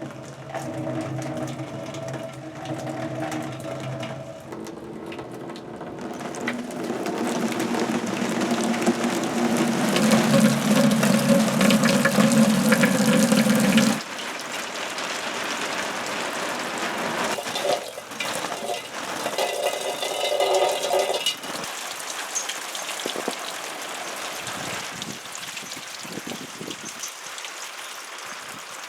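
Water falling and splashing onto hung found objects in a water-music installation, with pitched tones ringing over the rush of water. It builds to its loudest in the middle and cuts off abruptly about halfway through, followed by a short burst of ringing tones and then a quieter splash.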